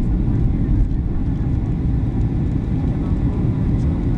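Steady cabin rumble of a Boeing 737-800 in flight, engine and airflow noise heavy in the low end and even throughout.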